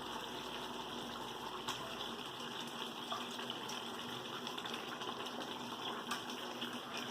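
Steady hiss and bubbling of food cooking on the stove, with a few faint clicks.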